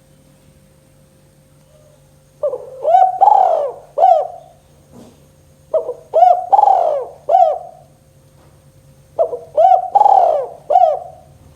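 Spotted dove (tekukur) cooing: three repeated phrases of four or five short, curved notes each, a few seconds apart.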